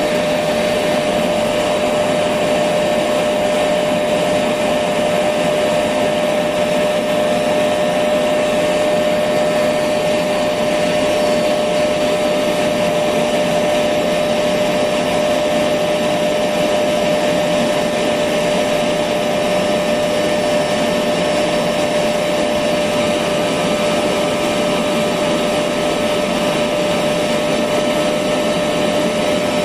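Electric vacuum cleaner running steadily: a constant rushing motor noise with a steady mid-pitched whine in it, unchanging throughout.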